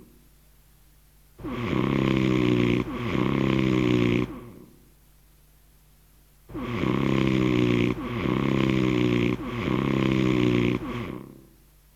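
Snoring sound effect: two snores back to back, a pause of about two seconds, then three more in a row.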